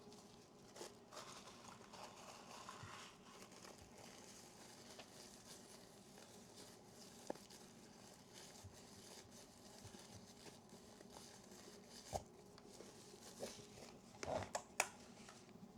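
Near silence with faint rustling of dry lens tissue being wiped over a camera lens, and a few light clicks and taps, most of them bunched near the end.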